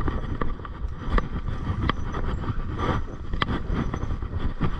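Mountain bike rolling along a dirt trail: a steady low rumble of tyres and wind, with scattered clicks and rattles from the bike.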